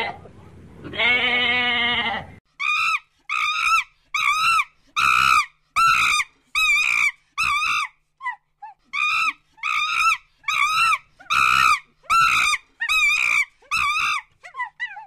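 A sheep bleats once. Then a gibbon gives a long series of loud hooting calls, about three every two seconds, each sweeping in pitch, with a short break partway through and a few quick, rising notes at the end.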